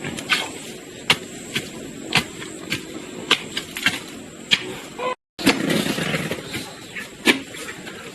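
Sharp knocks repeating about every half second over a steady background, broken by a brief dropout about five seconds in.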